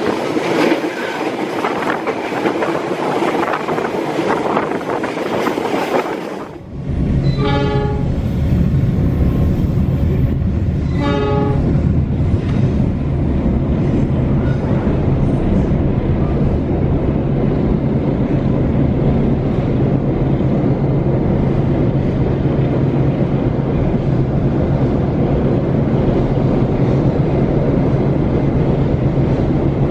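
Passenger train running. First comes a rush of wind and track noise through an open door, then a steady low running rumble with a hum. The train horn sounds two short blasts, about eight seconds in and again some three seconds later.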